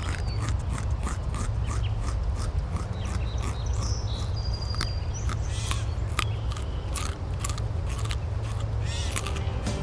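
Rabbits chewing food: irregular crisp crunching clicks, a few a second, over a steady low rumble, with a brief bird chirp about four seconds in.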